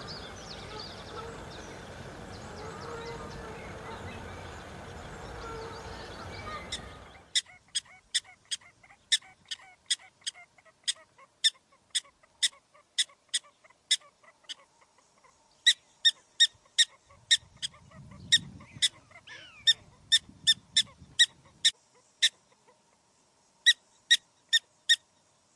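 Noisy outdoor sound with high chirps, then a run of short, sharp, high animal calls repeated about two to three times a second, with short pauses, stopping just before the end.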